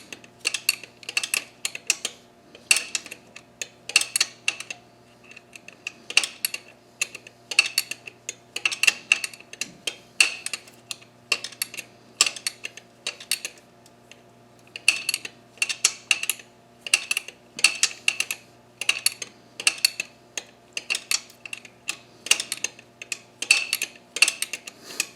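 Socket ratchet wrench clicking in short repeated swings, a cluster of clicks about once a second, as intake fasteners are tightened.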